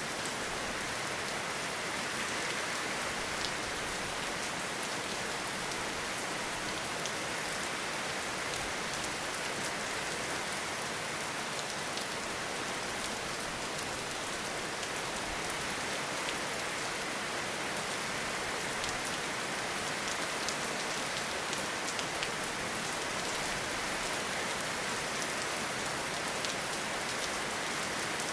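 Steady rainfall in a forest, a dense even hiss of rain with many small drop ticks, holding at a constant level throughout.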